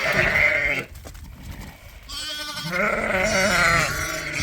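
Sheep bleating: a short bleat at the start, then a longer, wavering bleat from about two seconds in.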